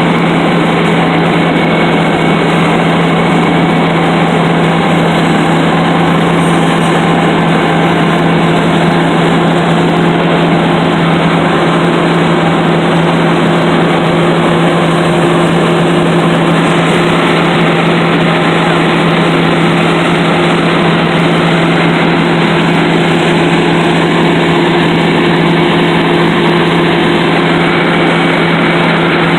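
Road milling machine (cold planer) working steadily: a loud, constant engine drone with a steady hum over dense grinding noise, unchanging throughout.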